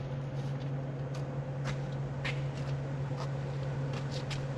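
A steady low mechanical hum, like an engine running at a constant speed, with scattered light clicks and ticks over it.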